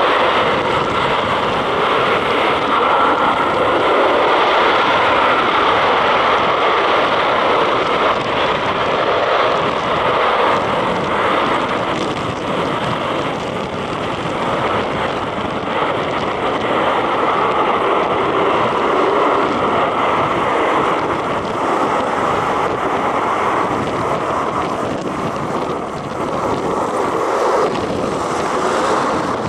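Steady, loud roar of military aircraft engines, with strong wind buffeting the microphone.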